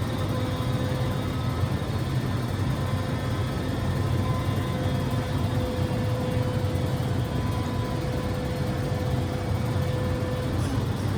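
Steady low mechanical hum with a faint, even whine above it; the whine fades out shortly before the end.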